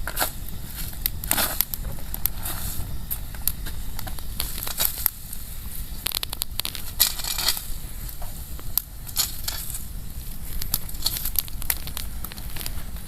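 Wood bonfire crackling, with sharp snaps throughout and a few longer rustling bursts, the loudest about seven seconds in.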